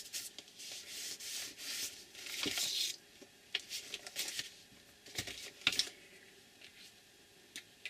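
Paper edges being scraped and rubbed to distress them, in a quick run of hissy strokes for about three seconds, then dying down to a few light taps and handling noises of paper.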